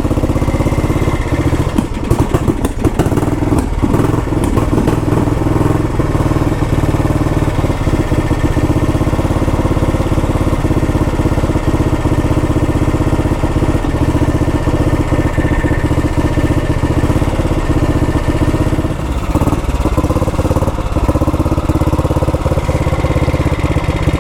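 1962 Matchless G80CS's single-cylinder four-stroke engine idling steadily, warming up just after a cold start.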